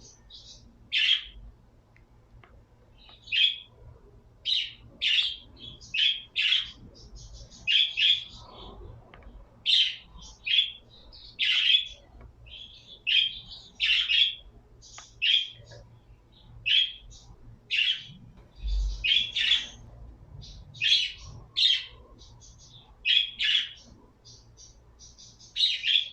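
Pet birds chirping: loud, short, high calls repeated about once a second, with softer, quicker twittering in between.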